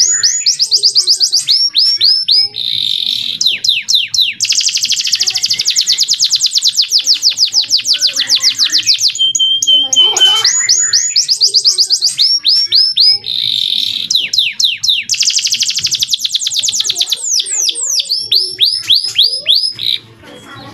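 Male domestic canary singing loud, clear song made of rapid trills: quick repeated note sweeps, a buzzy rattle and a long fast trill, with the same run of phrases repeated about ten seconds in. The song stops just before the end.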